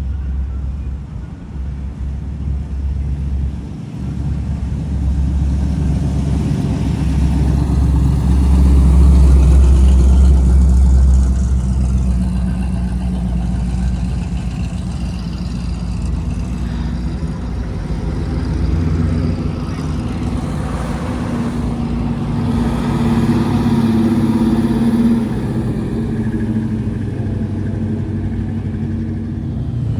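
Classic cars driving past one after another, engines running with some revving. The loudest car passes about a third of the way through, and another swells up about three quarters of the way through.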